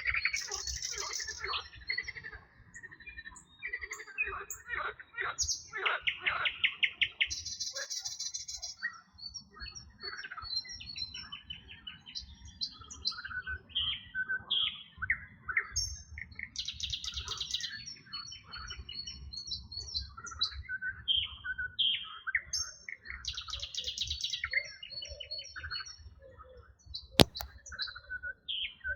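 Several songbirds singing and chirping together, one of them repeating a high buzzy trill every seven or eight seconds, over a low rumble. A single sharp click sounds about 27 seconds in.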